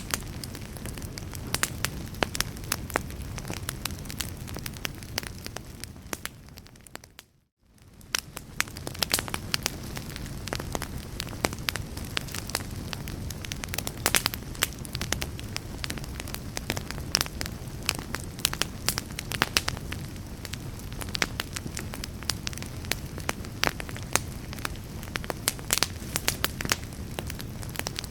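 Wood fire crackling in a fireplace, with frequent sharp pops and snaps over a steady low rumble. About seven seconds in the sound fades briefly to near silence and then fades back up, like the seam of a looped recording.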